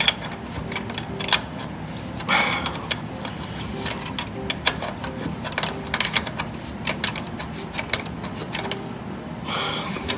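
Hand ratchet wrench clicking in short, uneven runs, with a couple of brief metal scrapes, as a tight exhaust nut is worked down; the thread feels so tight that galling is suspected.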